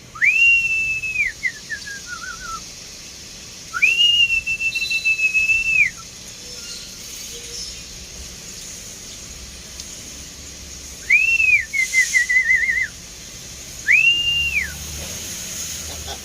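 A person whistling: four long, high whistles, each sliding up, held level for a second or two, then dropping away. Two are followed by short wavering trills.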